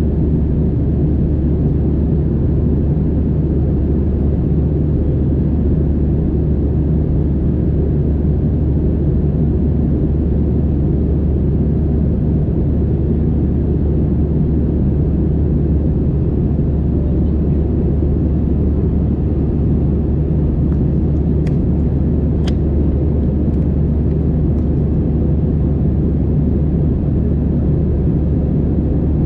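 Steady low drone inside the cabin of an Airbus A320-216, from its CFM56 engines and the airflow, with a faint steady hum. There are a couple of faint clicks about three-quarters of the way through.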